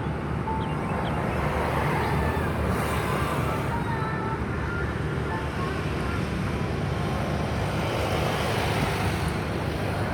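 Steady low drone of a passenger ship's engines mixed with wind and water noise, with faint voices in the background.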